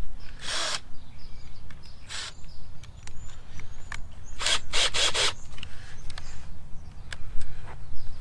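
Hand-tool work on the chicken tractor's wheel mount: a few short scraping strokes, with a quick run of four about four and a half seconds in, over a steady low rumble.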